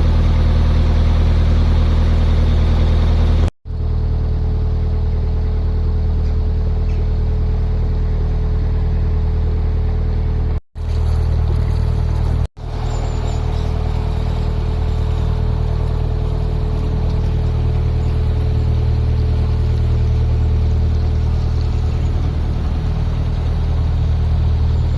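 Narrowboat's diesel engine running steadily under way, a deep even drone, broken by three brief gaps about a third and halfway through.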